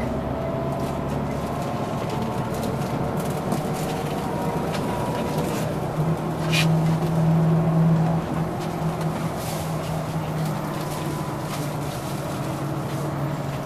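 Scania OmniLink CL94UB city bus heard from inside the passenger cabin while driving: a steady engine hum with road noise and light rattles. The engine grows louder for a couple of seconds from about halfway in, and a sharp click comes at the start of that rise.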